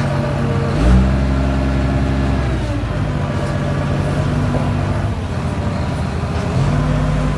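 Motor of a metal bending machine running with a steady hum. Its pitch steps up about a second in, drops back near three seconds, and steps up again near the end.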